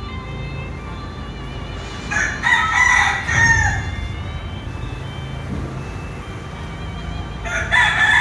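Roosters crowing: a loud crow about two seconds in, lasting nearly two seconds, and a second crow starting near the end.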